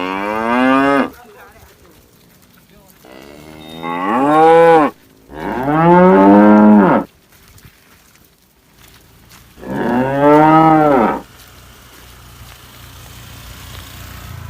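Cattle mooing: four long calls, the first already sounding at the start, each one rising and then falling in pitch, with short pauses between them.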